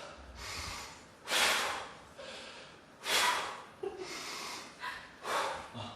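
A man breathing hard, with three loud, forceful breaths about two seconds apart and quieter breathing between them, while he readies for a burpee test.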